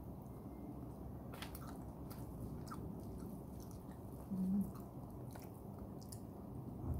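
A person chewing a mouthful of chicken biryani rice, with faint wet mouth clicks and smacks now and then. A short low hum comes about four and a half seconds in.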